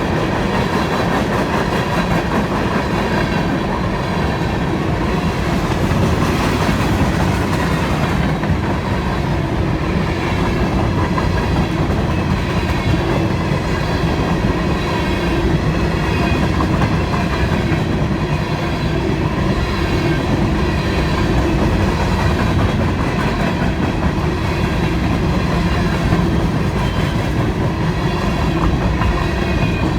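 Freight train of empty grain hopper cars rolling past at close range, steel wheels running steadily on the rails.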